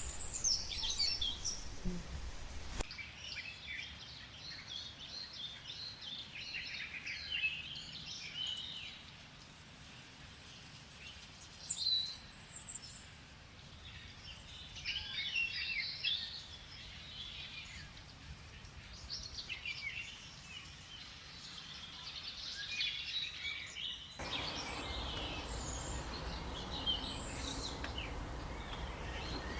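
Many birds chirping and calling in a jungle soundscape, over a steady hiss of background noise that changes abruptly about three seconds in and again about five seconds before the end.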